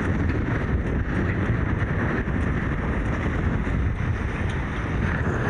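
Strong wind buffeting the camera microphone, a steady dense rush, mixed with the noise of a Hobie 16 catamaran sailing fast under mainsail and jib in about 30 knots of wind.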